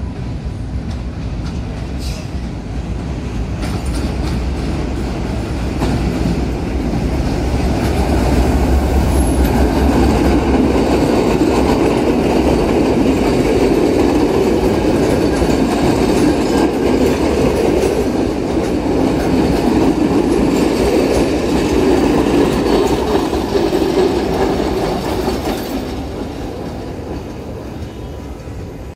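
Diesel-hauled passenger train passing close by. The Class M2C locomotive's engine hums low at first, then the coaches' wheels rumble and clatter over the rails, loudest in the middle and fading near the end.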